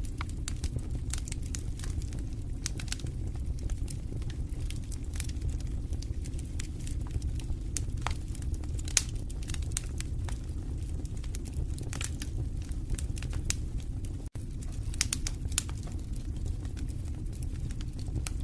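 Wood fire in a fireplace crackling, with irregular sharp pops and snaps over a steady low rumble of the flames. A split-second gap in the sound about fourteen seconds in.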